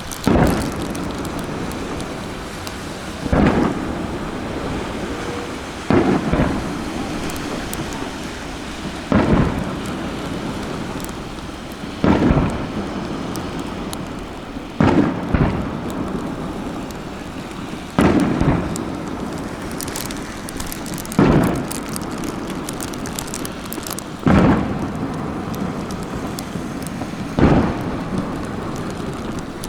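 Aerial firework shells bursting, about ten deep booms at a steady pace of roughly one every three seconds, each trailing off in an echoing rumble, over a continuous hiss.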